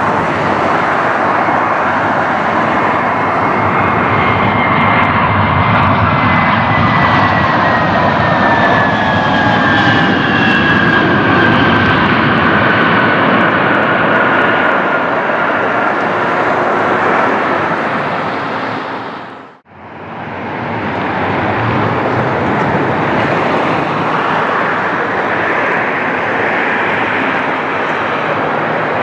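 Jet airliner engines going past, a loud rush with a whine that slowly falls in pitch. The sound cuts out abruptly about two-thirds of the way through and resumes as more jet engine noise.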